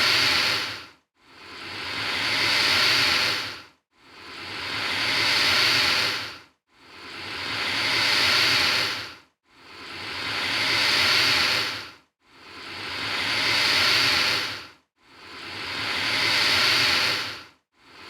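Alligator hissing: a breathy hiss that swells over about two seconds and cuts off, repeated at even intervals about every three seconds, some seven times.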